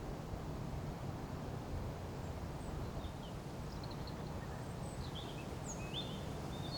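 Outdoor ambience: a steady low rumble with small birds chirping. The faint short high chirps begin about two seconds in and come more often near the end.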